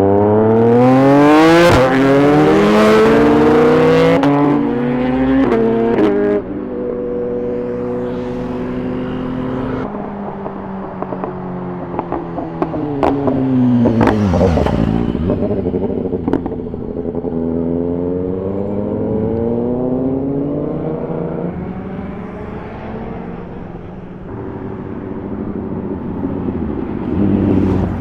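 Superbike engines revving and accelerating, the pitch climbing steeply at the start, then easing off and falling before rising again, with a few sharp cracks around the middle.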